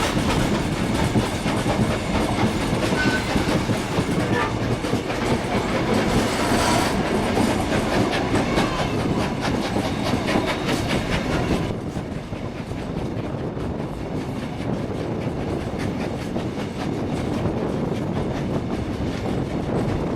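Steam-hauled heritage passenger train running along the track, its wheels clacking steadily over the rail joints. The noise eases off a little just past halfway.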